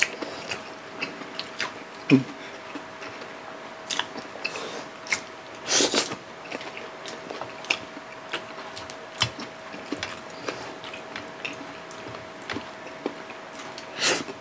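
Eating sounds: two people chewing and smacking their lips as they eat rice and fried fish by hand, with many short scattered clicks and smacks, the loudest about six seconds in and near the end. A faint steady hum runs underneath.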